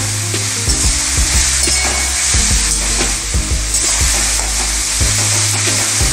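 Chopped vegetables sizzling in hot oil in a metal kadai. A slotted metal spatula stirs them, scraping and clicking against the pan many times over the steady hiss of the frying.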